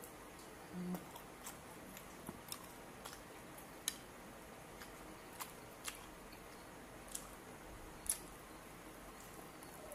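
Faint eating sounds from someone chewing grilled barbecue meat, with scattered sharp mouth clicks and smacks at irregular intervals and a brief low hum about a second in.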